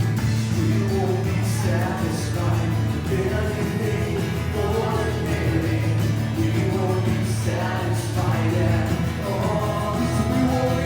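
Worship song played by a band with a lead singer, a steady bass line under the voices.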